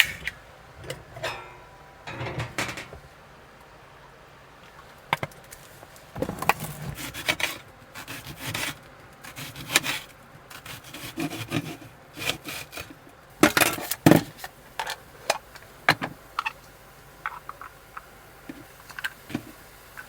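Irregular knocks, scrapes and rubbing of wood and utensils being handled, in short bursts with a cluster of louder knocks about two-thirds of the way through.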